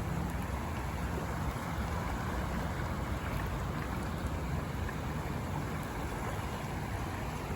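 Steady rushing noise of floodwater, with a low rumble of wind buffeting the microphone.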